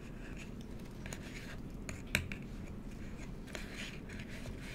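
Soft paper rustling and light taps as the pages and fold-out pieces of an interactive book are handled, with one sharper tap a little after two seconds in.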